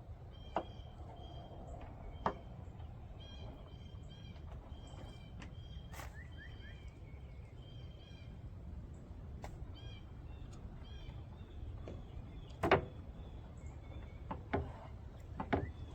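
A bird calling repeatedly in short, high chirps over a steady low outdoor rumble. A few sharp knocks or clicks cut in, the loudest nearly 13 seconds in.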